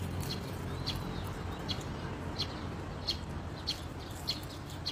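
A small bird chirping over and over, short high chirps about every two-thirds of a second, over a steady low background rumble.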